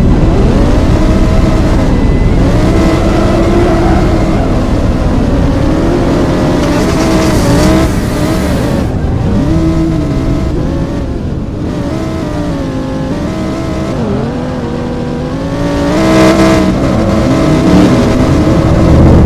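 Car engines revving, the pitch climbing and dropping again and again, with a louder surge about sixteen seconds in.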